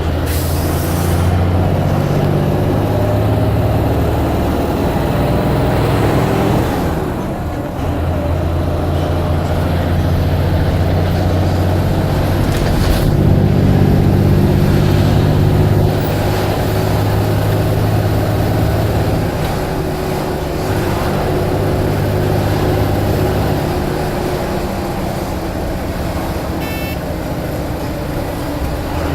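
Blue Bird All American bus's diesel engine running under way, its pitch and loudness shifting several times with changes in speed and load, with a brief dip about seven seconds in.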